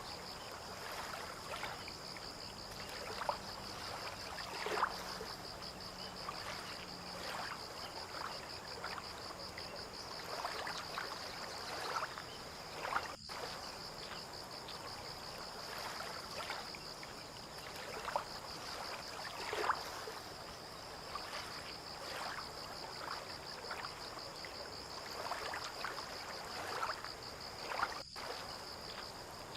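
Small waves lapping and splashing irregularly against the shore or moored boats, over a steady, fast-pulsing high insect trill.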